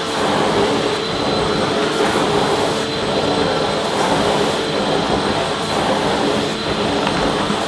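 Vacuum cleaner running steadily: a constant rushing of air with a steady motor whine.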